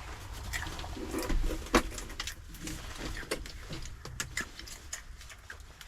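Scattered clicks, knocks and rustling of a drink being taken out and opened by hand.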